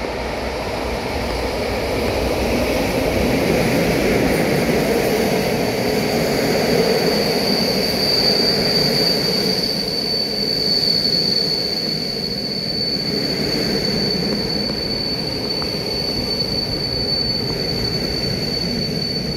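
Electric-locomotive-hauled passenger train passing on the rails: a steady rumble that swells as the locomotive and carriages go by. A steady high-pitched squeal joins about seven seconds in and holds.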